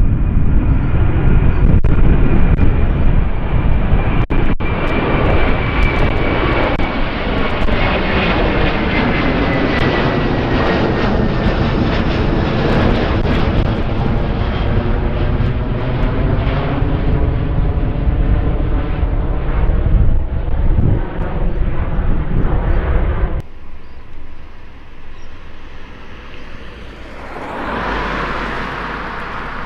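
Jet airliner's engines passing close: a loud, steady roar with a slowly falling whine. It drops off suddenly about 23 seconds in, and a fainter jet sound swells near the end.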